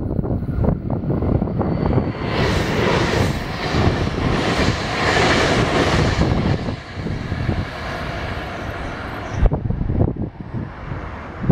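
Meitetsu electric multiple-unit train passing close at speed. Its wheel-on-rail rush swells about two seconds in, eases after about six seconds, and cuts off suddenly near the end as the last car goes by.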